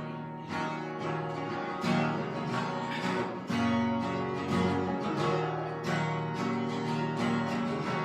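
Worship band playing the instrumental introduction of a song, led by strummed acoustic guitar chords.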